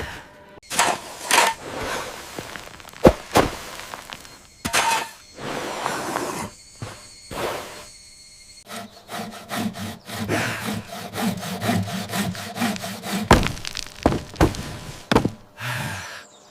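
Wood being worked by hand. Irregular scraping strokes and knocks give way, about nine seconds in, to a quicker, even run of back-and-forth sawing strokes.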